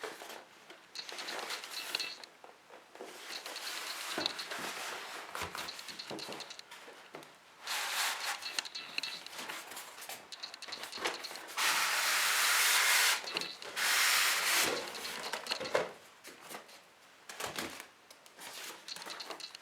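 Packaging rubbing, sliding and rustling as a boxed scale model is unpacked by hand, in uneven spells with several louder scraping stretches in the middle, the longest lasting over a second.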